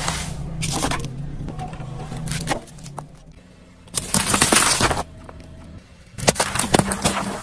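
Brittle objects being crushed under a car's tyres: a low engine hum, then two loud bursts of crunching and cracking, about four seconds in and again near the end.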